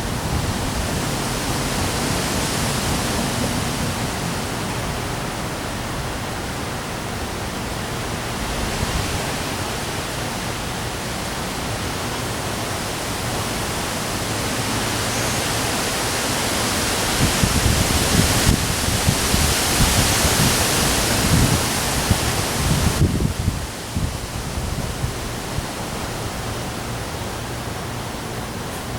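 Heavy rain and strong wind making a steady hiss. Past the middle a stronger gust rumbles on the microphone for several seconds, and after it the hiss eases.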